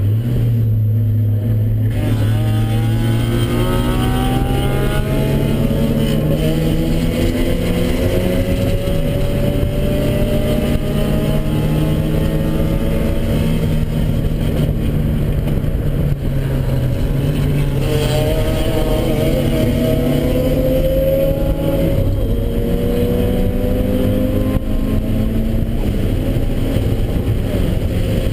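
Turbocharged Mazda Miata four-cylinder engine, heard from inside the cabin, pulling hard on track. Its pitch climbs under acceleration and drops back at each of several gear changes, low and steady for the first couple of seconds, over constant road and wind noise.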